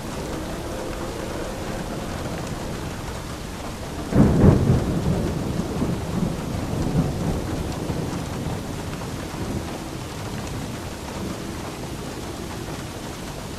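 Steady rain, with a clap of thunder that breaks in suddenly about four seconds in and rumbles away over several seconds.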